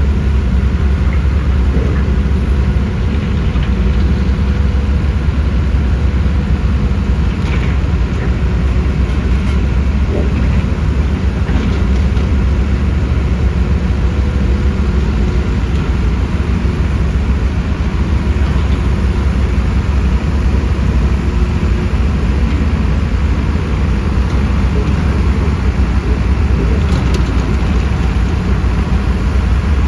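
Heavy construction machinery's diesel engines running steadily in a continuous low rumble, with a few faint knocks.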